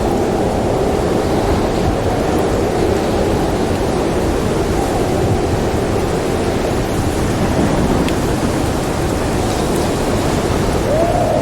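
Howling snowstorm wind: a steady roar with whistling gusts that waver up and down in pitch, one rising sharply near the end, and a few faint crackles from a wood fire.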